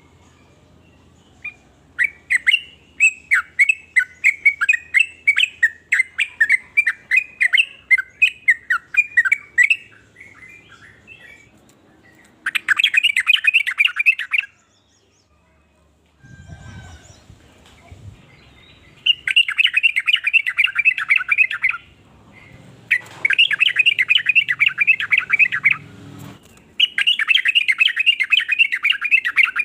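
Yellow-vented bulbul (trucukan) calling: a run of quick chirps, about three or four a second, for some eight seconds, then four spells of fast chattering, each about two seconds long.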